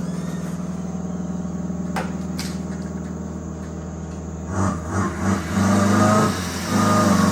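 Bluetooth exhaust speaker on an electric scooter playing a simulated motorbike engine sound: a steady idle, then revving in surges as the throttle is worked from about four and a half seconds in, louder near the end.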